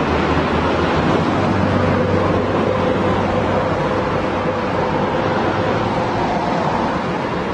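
Steady road-traffic noise: a continuous rush of passing vehicles, with faint engine hum and a light tone that comes and goes.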